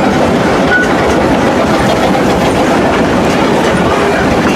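Amusement-park railroad train running along the track, its cars rolling with a steady rumble and wheel clatter.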